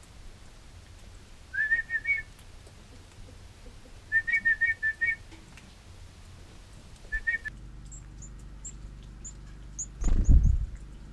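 Short whistled notes at one steady pitch, repeated in three runs: a few, then about eight in quick succession, then two. Near the end there are faint, very high bird chirps and a loud low thump.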